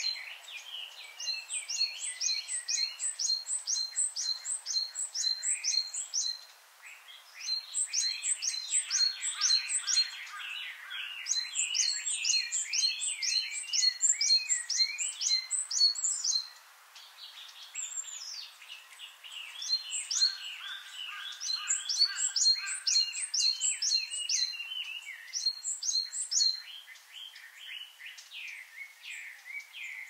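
Wild songbirds calling: one bird repeats runs of quick, high, evenly spaced notes, each run a few seconds long with short breaks between, over continuous lower twittering from other birds.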